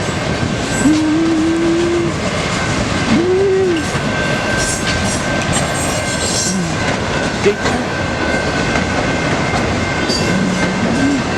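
Norfolk Southern mixed freight train rolling through a grade crossing: the cars' wheels rumble and clatter steadily over the rails, with a thin steady high tone running underneath.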